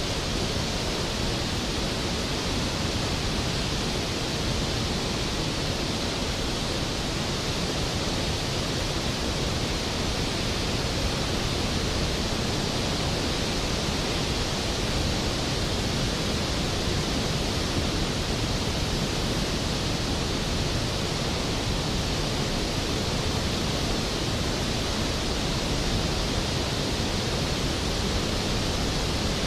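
Skógafoss waterfall, a large glacial-river waterfall, plunging into its pool: a steady, loud rush of falling water.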